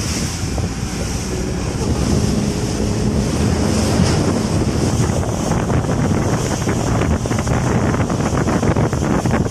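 Wind buffeting the microphone over rushing, splashing sea water, as on a fast-moving boat, with a faint low motor hum underneath.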